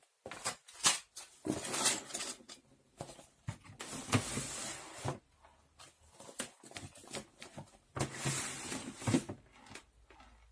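Objects being handled and set down: a quick series of knocks and clicks, with three longer rustling or sliding sounds, about a second and a half in, around the middle, and near the end.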